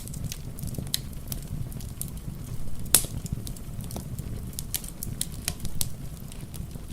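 Wood fire crackling in a fireplace: irregular sharp pops and snaps, one louder pop about three seconds in, over a steady low rumble.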